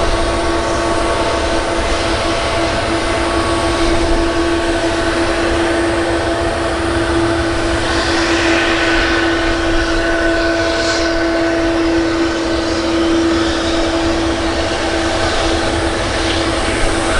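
Jet engines of a Boeing 777-200 airliner running loud and steady: a continuous rushing noise with a steady humming tone.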